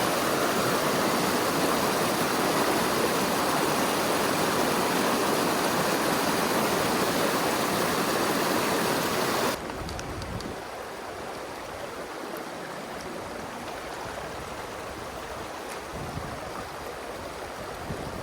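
Rushing mountain-stream water, a steady loud hiss. About nine and a half seconds in it cuts abruptly to a quieter rush of water, with some low rumbling.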